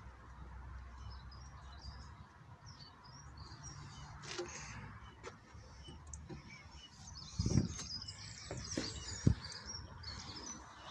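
Small birds chirping and twittering over low outdoor rumble, with a dull thump about two-thirds of the way through and a sharp knock soon after.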